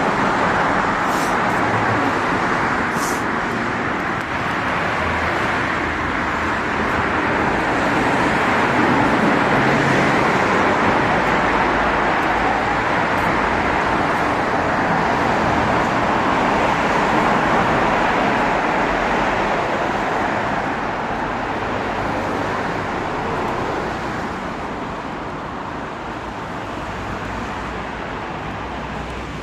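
Steady road traffic: the continuous tyre and engine noise of cars going by, slowly easing off over the last several seconds.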